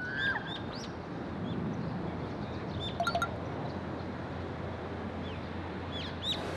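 Small birds chirping in short, scattered calls over a steady background of outdoor ambience, with a quick run of sharper chirps about three seconds in.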